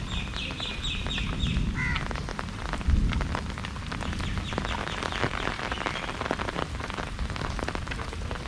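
Heavy rain falling, with many close drops pattering sharply on a surface. A rapid run of high chirps sounds in the first two seconds, and there is a single low thump about three seconds in.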